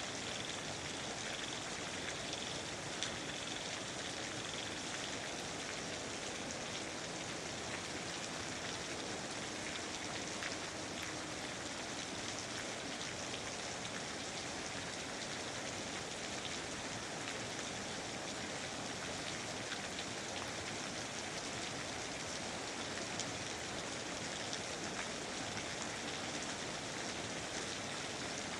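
Steady rain falling in a rainforest, a dense even hiss with many small drop patters on leaves and surfaces and a few slightly louder drops now and then.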